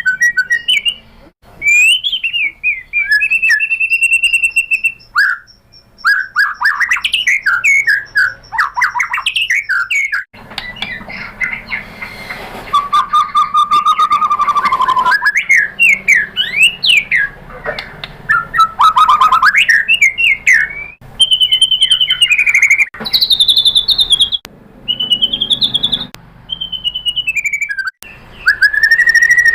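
White-rumped shama (murai batu) singing a varied song of whistled notes, sweeping glides and rapid chattering phrases, with short pauses between phrases.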